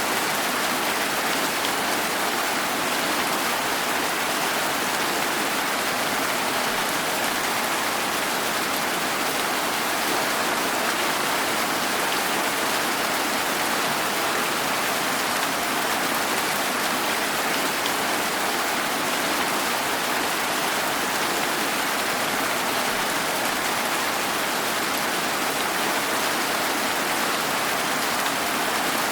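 Steady rain falling, an even hiss of many drops that doesn't let up or change.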